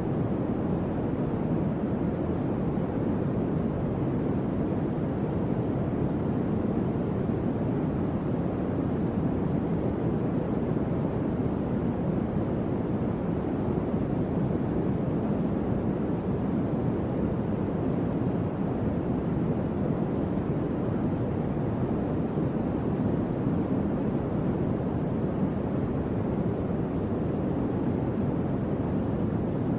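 Electric fan running: a steady, even whoosh of moving air, weighted low, with no clicks or changes.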